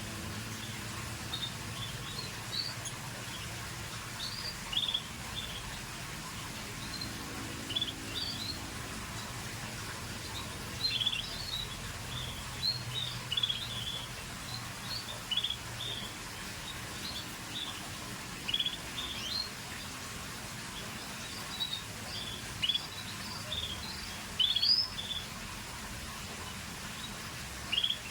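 Scotch Fancy canaries giving short, high chirping calls, scattered unevenly and sometimes in quick pairs, over a steady background hiss and low hum.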